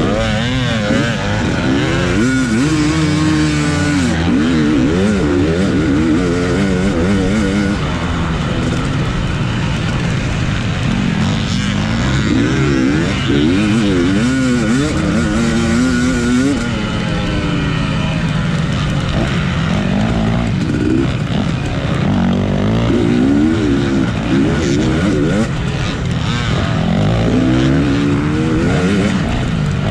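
250cc dirt bike engine under race load, revving up and down over and over as the rider opens and closes the throttle and shifts, heard close from the rider's own bike.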